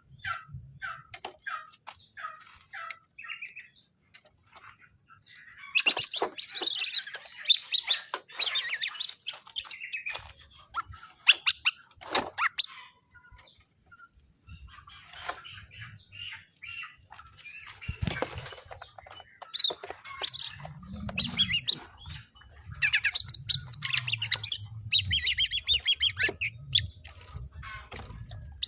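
Male and female greater green leafbirds (cucak ijo) calling in courtship, with rapid chirps and trills. The calls come in two dense, busy runs, about six seconds in and again near the end, with quieter scattered chirps and a few sharp knocks between.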